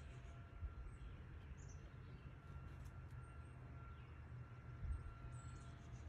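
Quiet garden ambience: a few faint, high, short chirps of small birds over a low steady rumble.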